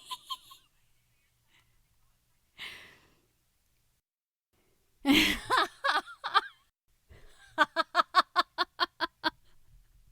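A woman's laughter: a breathy exhale, then a burst of laughing about five seconds in that breaks into a quick run of about a dozen short "ha" pulses.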